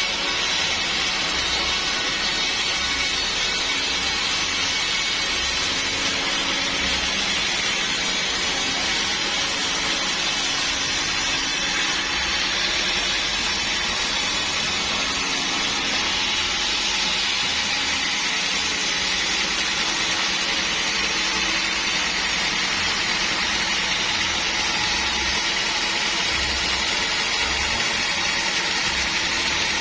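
Sawmill saw machinery running steadily: a constant, even hissing noise over a low engine hum, with no change in level.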